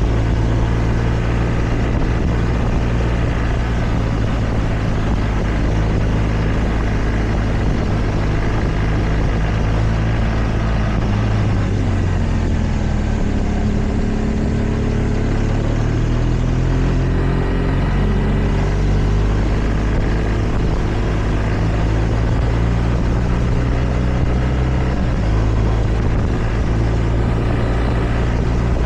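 Motorcycle engine running steadily under way over a constant rushing noise; about twelve seconds in the engine note drops, then climbs back up over the next few seconds.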